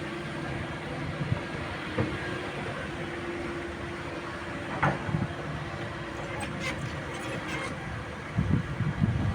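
Cat 306E2 mini excavator running steadily, with a few dull knocks and thuds, one about two seconds in, one about five seconds in and a cluster near the end.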